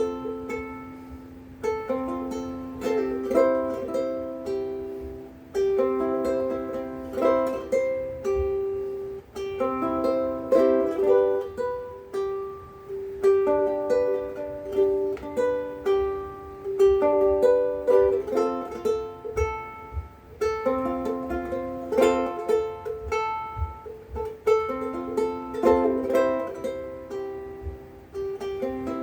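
Big Island Poni-C ukulele with Worth Brown strings, picked solo in a loose improvised noodle: a steady flow of single notes and small chords, each plucked note ringing and fading.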